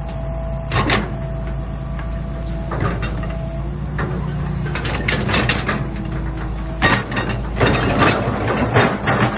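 Excavator working: a steady low engine hum with repeated metallic clanks and knocks, thickening over the last couple of seconds.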